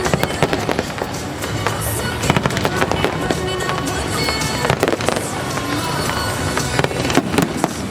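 Aerial fireworks exploding in a continuous barrage, with many sharp bangs and quick crackling clusters, under music.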